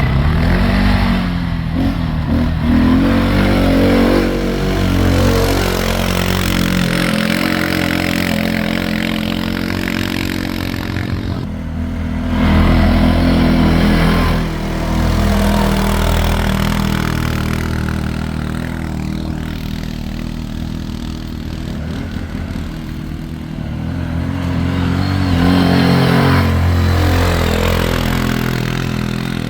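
ATV engine running under way, its pitch rising and falling with the throttle. It is loudest twice, about twelve seconds in and again near the end.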